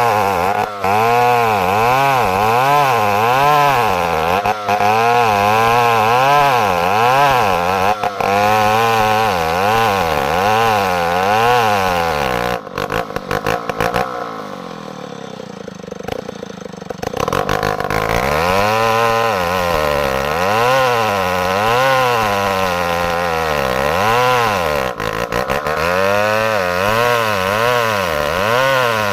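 Stihl chainsaw engine running with its speed surging up and down about once a second; about halfway through it drops away and slows, then revs back up and surges again. The engine is running rough, which the owner thinks could be a broken piston ring.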